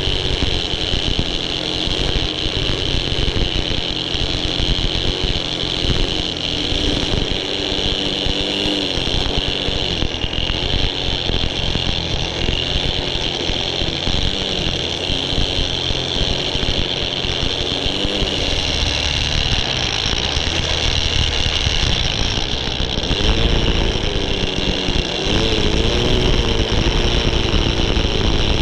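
Small gas engine of a string trimmer running continuously at high speed, its pitch wavering up and down near the end.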